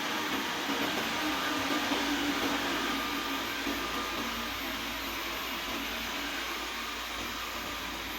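Xiaomi Mijia Mop P robot vacuum running: a steady whirring suction noise with a faint hum in it.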